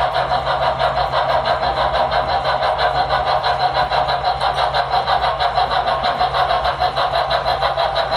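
Model steam locomotive running, a fast even chuff of about five beats a second over a steady hum.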